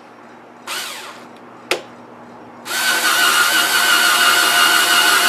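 Power drill briefly blipped about a second in, a sharp click, then running steadily from a little before three seconds in, boring into oak wood under hard pressure.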